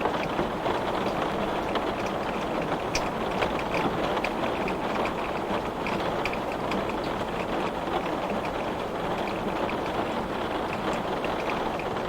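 Heavy rain pelting a glass pane: a steady, dense hiss of downpour with many small, sharp ticks of drops striking the glass.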